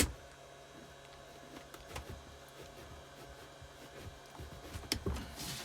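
A torque wrench gives one sharp click as it reaches its 30 newton-metre setting without breaking a cylinder head nut loose, followed by a few faint clicks of tool handling and a short rustle near the end.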